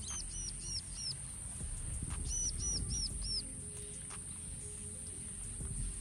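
A bird calling in two quick series of four high, clear notes, each note rising and then falling, the second series about a second after the first. Under it runs a steady, high-pitched insect drone.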